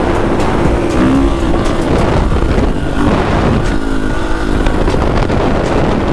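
450 dirt bike's single-cylinder four-stroke engine running under way, its revs rising and falling a few times, over a steady rumble of wind noise.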